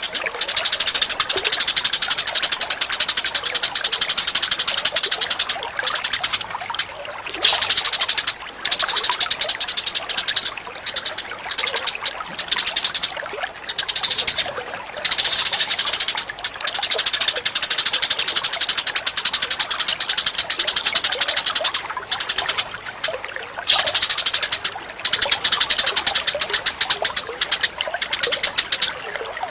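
Recorded bird calls for bird training: a very fast, dense, high chattering trill in bouts of several seconds broken by short pauses, the longest bouts near the start and in the middle.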